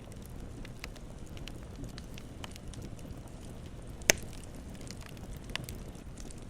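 Wood campfire burning with a steady low rush and scattered crackles, one sharp loud pop about four seconds in and a smaller one about a second and a half later.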